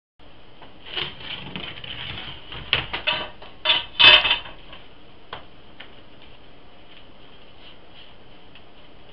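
Metal scraping and clanking as ash is cleaned out of a wood-burning furnace or stove: a run of scrapes and sharp clanks over about three seconds, loudest near the middle, then a single click and faint hiss.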